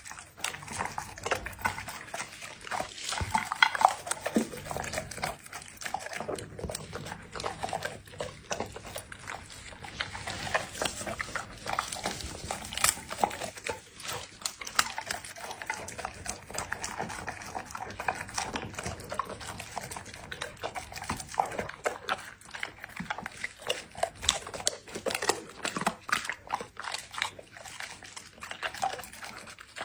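A chocolate Labrador eating: wet chewing, crunching and smacking at an irregular pace, with a few louder crunches about three to four seconds in.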